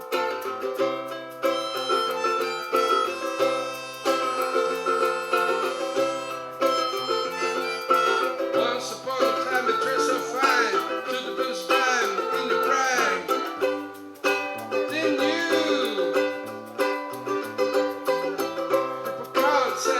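Small acoustic band playing a song after a count-in: strummed acoustic guitar with other plucked strings, and a melody line that bends and glides in pitch through the middle.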